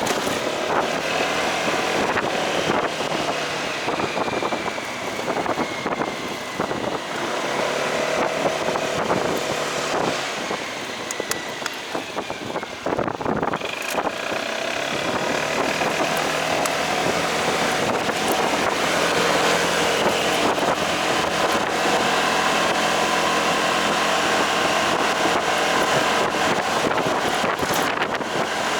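Motorcycle engine running while riding, with wind buffeting the microphone. It eases off about twelve seconds in, then picks up again and runs steadier and louder.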